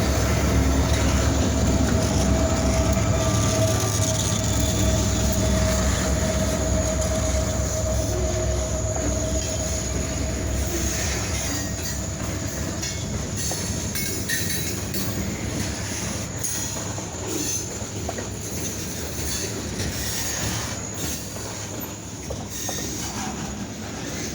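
Kiamichi Railroad freight train hauled by EMD SD40-2 diesel locomotives passing, with the locomotives' diesel engines rumbling and the wheels running on the rails. A wheel squeal rings for a few seconds, about four seconds in. The sound slowly fades as the train moves away.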